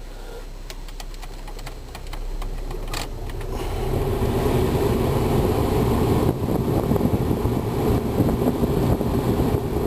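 Cabin climate-control blower fan switched on, rising in two steps, about two and about four seconds in, to a steady rush of air. A single click comes about three seconds in.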